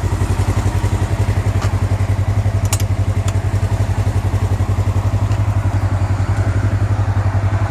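Polaris RZR XP 1000's parallel-twin engine idling through a Yoshimura aftermarket exhaust, a steady, even pulsing. A couple of light clicks come about three seconds in.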